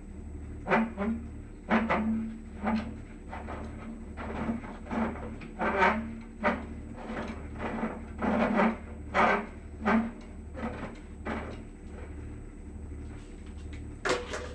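A series of irregular knocks and clunks of tools and metal parts being handled, about one a second, over a steady low machine hum that pulses at an even pace.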